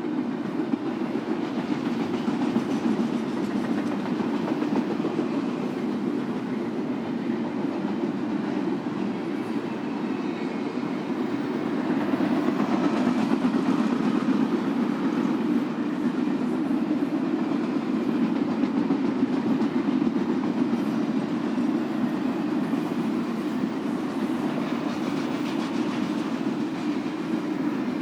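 Freight train cars rolling past on steel wheels: a steady rail rumble that grows a little louder about halfway through.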